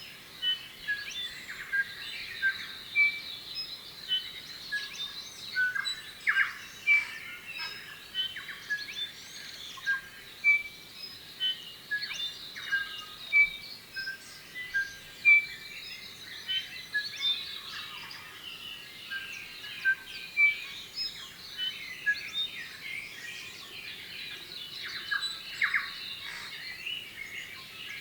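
New Zealand bellbirds (korimako) singing: many short, clear notes at a few repeated pitches, over a continuous chorus of chirps.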